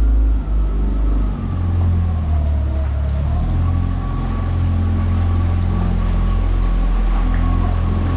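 Boat engine running steadily, a loud deep drone with a faint whine above it that drifts slightly in pitch.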